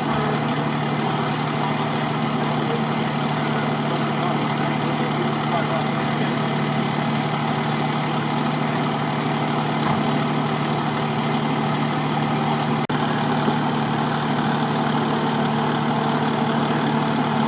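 A heavy diesel engine, most likely a fire truck's, idling steadily with a constant low hum under a broad, even hiss.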